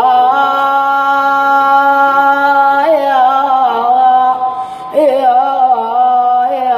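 A reciter chanting an elegiac verse in maqam Bayat through a microphone, unaccompanied: one long held note for about three seconds, then wavering melismatic turns about three and five seconds in.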